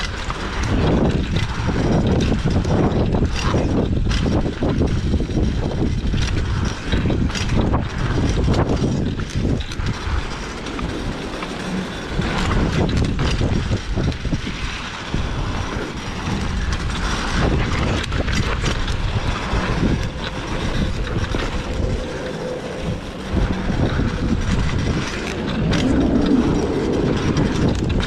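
Pit bike riding down a rough dirt trail: a steady rattling rumble with many knocks and clatters as the bike goes over bumps.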